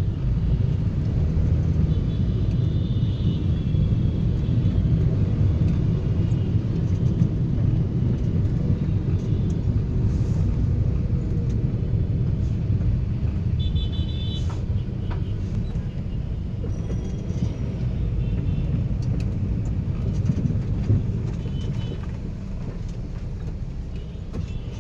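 Toyota Noah minivan driving: a steady low rumble of engine and road noise that eases slightly near the end, with faint high tones twice.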